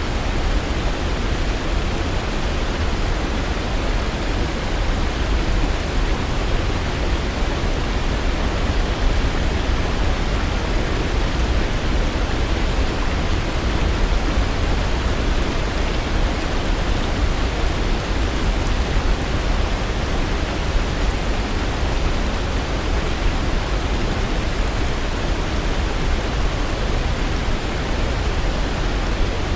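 Waterfall: a steady, unbroken rush of falling water with a low rumble underneath.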